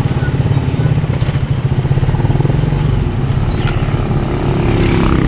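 Motorcycle engine running steadily with a low, rapidly pulsing drone.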